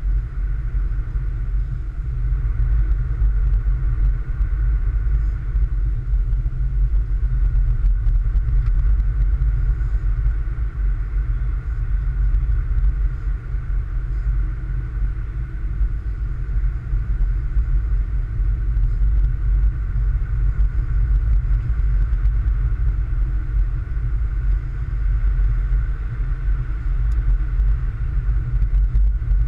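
Car driving, its engine and road noise making a steady low rumble.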